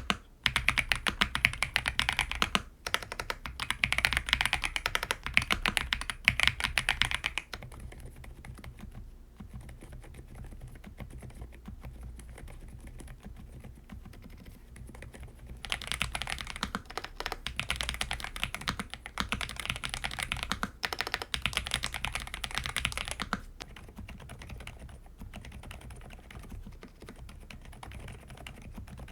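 Fast typing on a QSENN Q99 full-size mechanical keyboard, a dense run of keystrokes. Louder stretches of typing alternate with noticeably quieter ones, about every eight seconds, as different switches are heard.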